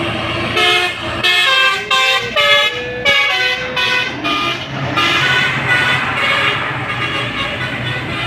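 Truck horn sounding a run of notes that change pitch, one sliding between notes, over a truck engine running steadily.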